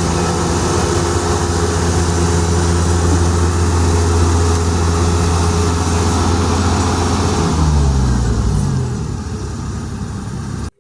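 Rice harvester's engine running steadily under load, then its pitch falling as it slows down about three-quarters of the way through. The sound then cuts off suddenly.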